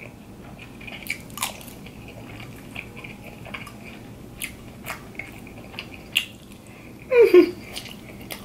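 Close-miked chewing of macaroni and cheese: wet mouth clicks and smacks scattered irregularly. About seven seconds in comes a short voiced hum that falls in pitch, the loudest sound here.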